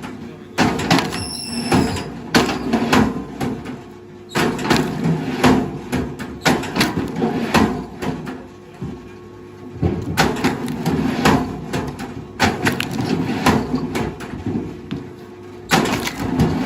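Repeated wooden knocks and cracks, some in quick runs and a few seconds apart, over a steady low machine hum, from heavy machinery handling logs or stumps.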